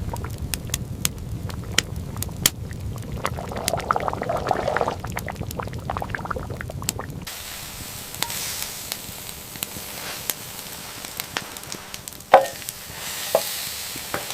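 Food cooking over a fire, with crackling and sizzling over a low rumble. About seven seconds in the sound cuts to a quieter steady hiss with scattered ticks, and two sharper knocks come near the end.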